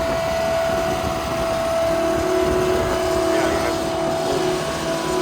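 A motor running steadily, with a constant hum and a lower tone that comes in about two seconds in.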